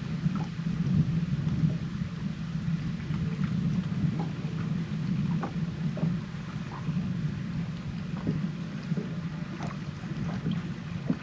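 Wind noise on the microphone, heavily filtered by noise reduction, heard as a steady low rumble with faint scattered ticks and taps.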